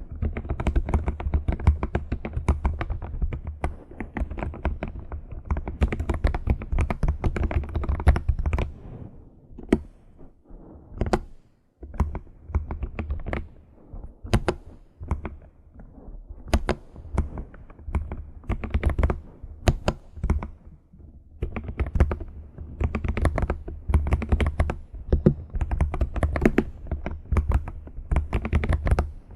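Typing on a computer keyboard: fast, dense runs of key clicks that slow to scattered taps with short gaps through the middle, then pick up to fast typing again.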